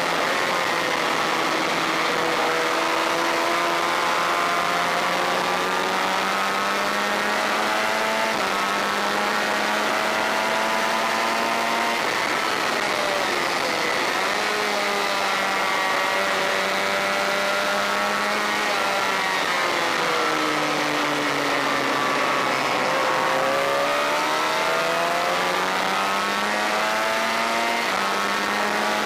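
Honda VFR400 racing motorcycle's V4 engine running hard, heard onboard with wind rush. Its pitch climbs and drops in steps with the gear changes, then falls deeply about twenty seconds in as the bike slows through downshifts before climbing again.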